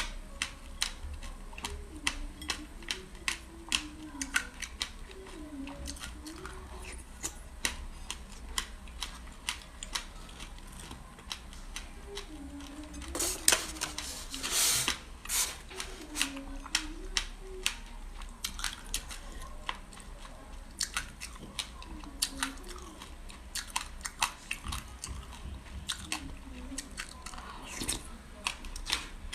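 Close-up chewing and crunching of sesame seeds and passion fruit, a steady run of sharp little crunches with a louder, denser bout of biting about halfway through. A faint wavering low tone sounds softly underneath.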